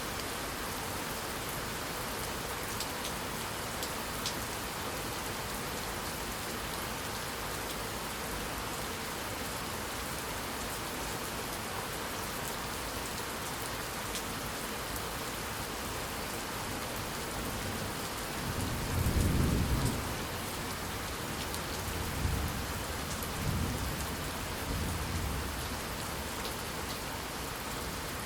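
Steady rain falling, with a low roll of thunder about two-thirds of the way through and a few weaker rumbles just after it.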